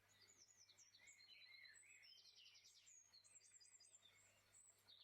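Very faint birdsong over near silence: many short, high chirps and falling notes, with a brief rapid trill about two seconds in.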